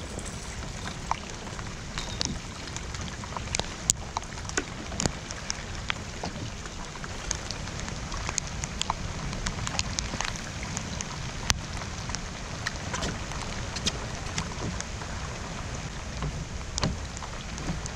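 Steady rain falling on open water: an even hiss with many sharp, scattered drop strikes, over a low wind rumble on the microphone.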